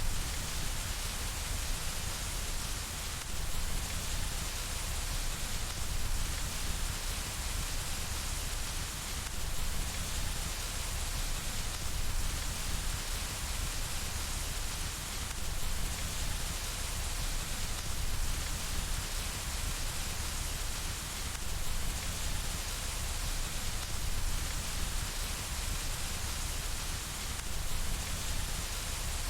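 Steady rain falling and hitting window glass, a continuous even hiss with a low rumble underneath.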